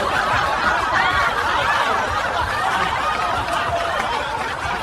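Several people laughing and snickering at once, a steady run of overlapping high-pitched laughter.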